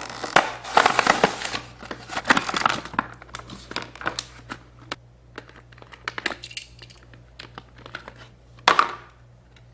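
Plastic toy packaging being opened and handled: a dense crinkling and crackling in the first few seconds, then scattered clicks and taps, with one more short crinkle near the end.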